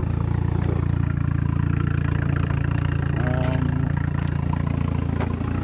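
Turbocharged 8-valve four-cylinder engine of a Mk4 VW Jetta wagon running steadily at a low, even engine speed, a constant low drone with no revving.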